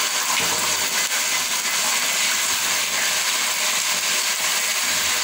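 Raw chicken pieces sizzling steadily in hot oil with browned onions in a large aluminium pot, stirred with a wooden spatula.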